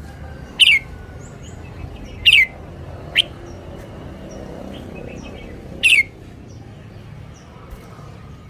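Red-whiskered bulbul calling: four short, loud notes, each falling in pitch, at uneven intervals, with fainter high chirps between them.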